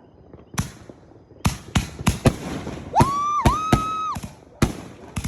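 Fireworks going off: about ten sharp bangs at uneven intervals. About three seconds in, a whistling firework rises into a steady high whistle that holds for about a second, dips once, then falls away.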